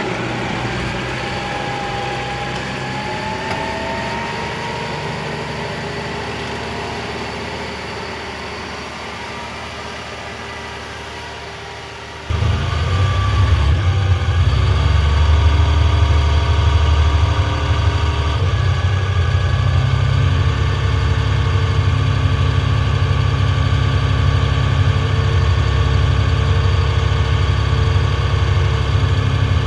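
John Deere 7230R tractor's diesel engine working, its pitch rising and falling and slowly fading. About 12 seconds in, the sound switches abruptly to a much louder, deeper, steady engine note.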